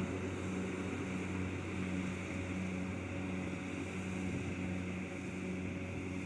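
Combine harvester's diesel engine running steadily, a constant hum with a light, even pulsing.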